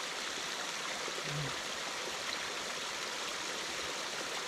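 Stream water running over rocks: a steady, even rushing.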